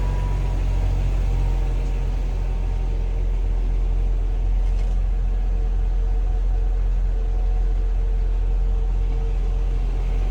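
Audi B5 RS4's 2.7-litre twin-turbo V6 idling steadily while warming up after a cold start, with a deep, even rumble and no revs.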